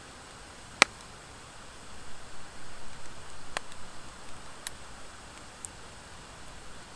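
Wood fire of driftwood and dry hardwood burning with a steady hiss. There is one sharp, loud pop of the wood about a second in, a few smaller crackles later, and the flames' rustle grows uneven through the middle.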